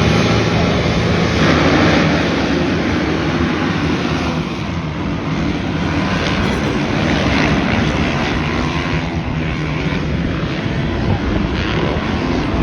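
Many dirt bike engines running hard together during a race, a dense, loud engine noise that swells slightly in the first couple of seconds and then holds.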